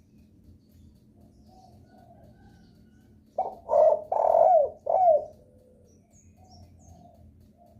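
Derkuku (island collared dove) cooing. A loud phrase of about four coos comes a little past the middle, each note dipping in pitch at its end, with softer cooing before and after. This is a lure-call recording, used to set other derkuku calling.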